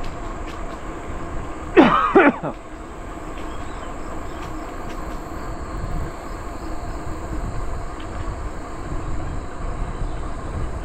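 Steady wind and rolling noise from a bicycle ride. About two seconds in it is broken by two quick, loud squeals that slide sharply in pitch.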